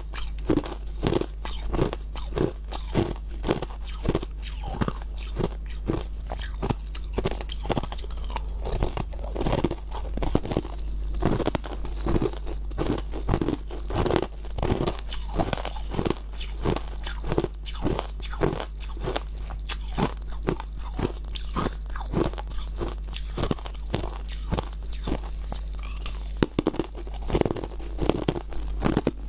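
Close-miked crunching and chewing of frozen, icy food: a steady run of crisp crunches, about two to three a second, as the ice is bitten and ground between the teeth.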